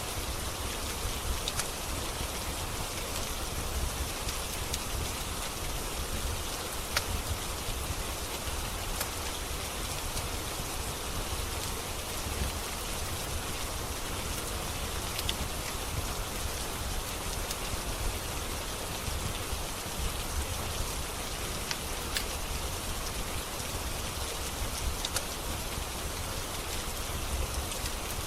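Steady rain hiss with a low rumble underneath, and a few sharp, scattered crackles from a wood fire.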